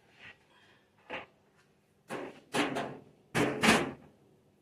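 A run of short, sharp knocks and clatters from things being handled and set down on a kitchen counter, the loudest pair near the end.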